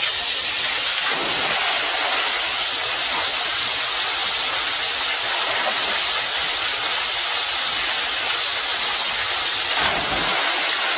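A steady, even rushing hiss that holds at one level throughout.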